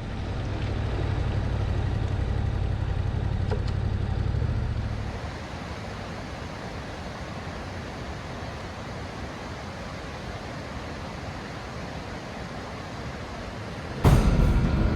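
A road vehicle's engine runs with a low rumble for about the first five seconds, then settles into a quieter, steady road and wind noise. Music comes in loudly about a second before the end.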